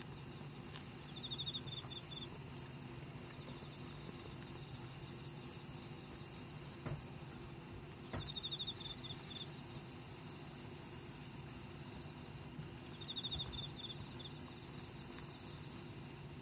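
Insects chirping: a short pulsed chirp and a higher buzzing trill, each coming back every few seconds over a steady low hum, with a few faint clicks.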